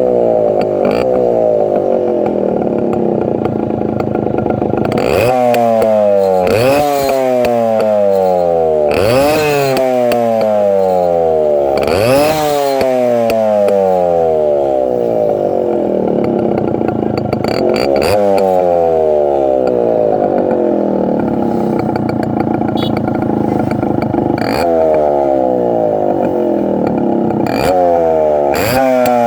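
Yamaha Deluxe CDI 100's two-stroke single-cylinder engine running through an exhaust with the dB killer (silencer baffle) removed, idling and blipped about seven times, each rev rising sharply and falling back to idle.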